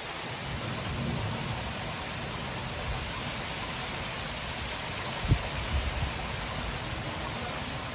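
Heavy rain pouring steadily in a gusty thunderstorm wind, with a few brief low thumps a little past halfway.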